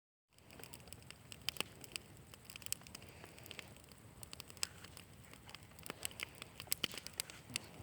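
Small campfire crackling, with many irregular sharp pops and snaps over a low hiss.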